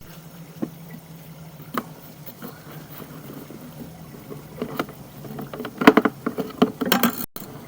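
A steady low engine hum, with single clicks early on and a flurry of louder knocks and rattles about six to seven seconds in.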